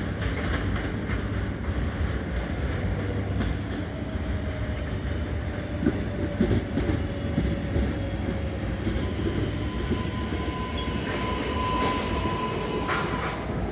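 New York City Subway L train running through the station, a steady rumble with scattered wheel clicks over the rail joints about halfway through. A thin high whine comes in midway and rises to a higher pitch near the end.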